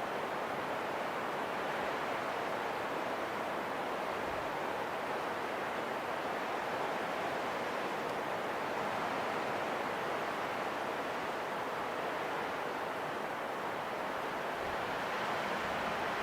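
Steady wind: an even, unbroken hiss with no gusts or sudden sounds.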